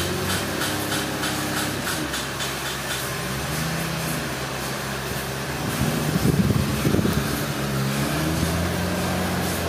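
A vehicle engine running and revving, its pitch rising and falling several times, with a louder, rougher stretch about six seconds in.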